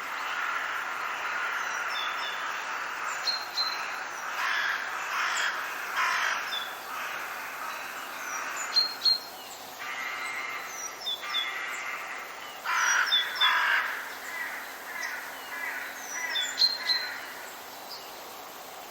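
Forest birds calling: repeated harsh, rasping calls, with short high chirps from small birds scattered between them.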